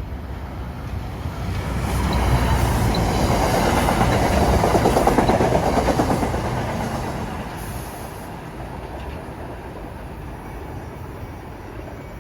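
A train passing by, its wheels clattering over the rails, growing louder to a peak a few seconds in and then fading away as it recedes.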